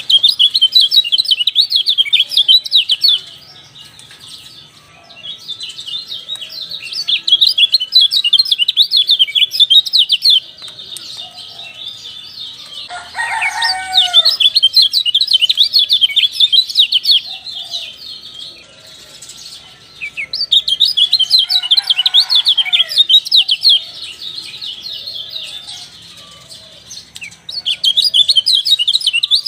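Kecial dampuk songbird singing a rapid, high twittering chatter in bouts of a few seconds, with short pauses between bouts.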